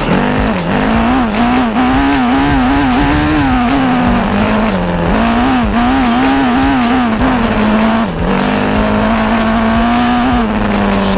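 Motorcycle engine revving up and down in quick swings while riding, then holding a steadier pitch for a couple of seconds near the end.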